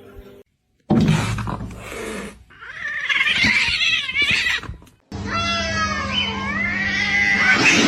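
Domestic cat meowing in long calls that waver and slide in pitch, heard across clips that cut abruptly, with a noisy stretch near the start and a steady low hum under the last call.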